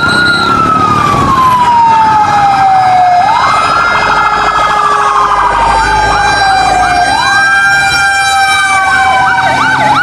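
Toy fire truck's electronic siren wailing. Its pitch falls slowly and sweeps quickly back up about every four seconds, and it switches to a fast yelp near the end.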